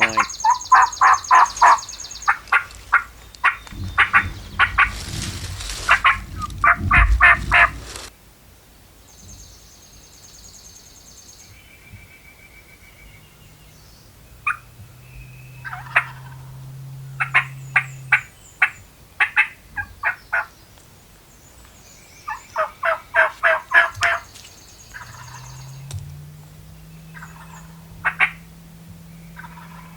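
Turkey calling: several runs of evenly spaced yelps, with gobbling, as a hunter's calls and the birds answer. A rumble of wind or handling noise covers the first few seconds, and a low steady hum comes twice later on.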